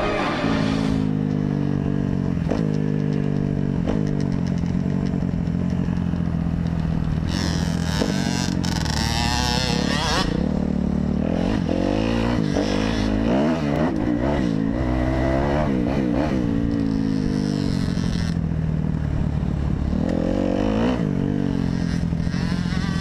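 Dirt bike engine revving up and down repeatedly, its pitch rising and falling, with a rougher, noisier stretch of clatter about a third of the way in.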